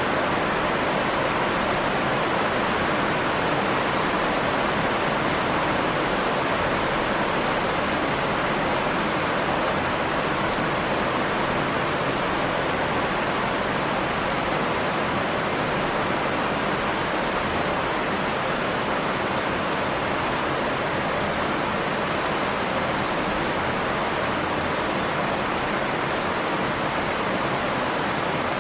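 Steady rain falling, an even, unbroken hiss with no thunder or other sudden sounds.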